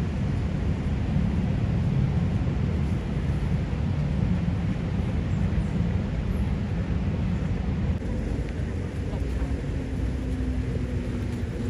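Steady low rumble of vehicle traffic, with a faint steady engine hum coming in about two-thirds of the way through.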